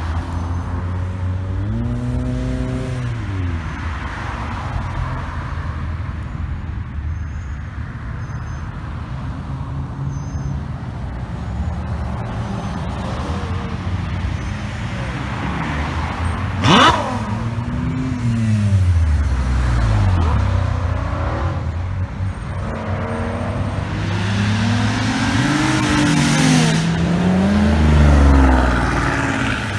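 Cars leaving a car meet one after another, engines revving and accelerating past, each pass rising and falling in pitch. A short, sharp, loud sound about 17 seconds in.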